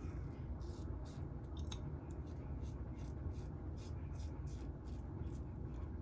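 Alpha Outlaw double-edge safety razor cutting lathered stubble: short crisp scraping strokes, about three a second, over a low steady room hum.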